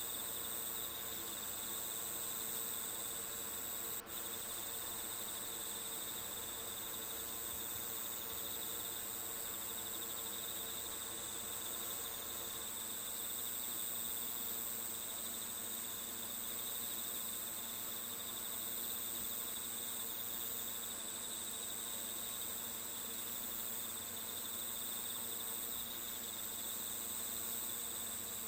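Steady chorus of crickets chirring from a nature-sound ambience track, with a brief dropout about four seconds in.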